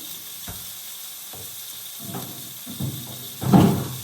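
Food sizzling steadily in a frying pan, with a few short knocks and a louder clatter about three and a half seconds in.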